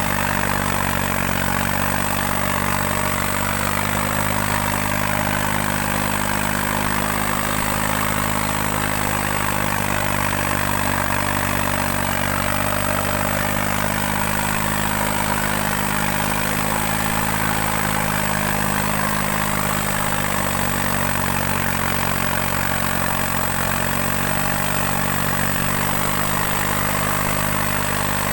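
New Holland 3630 tractor's diesel engine running steadily under load while pulling two harrows; its note sags slightly and recovers around the middle.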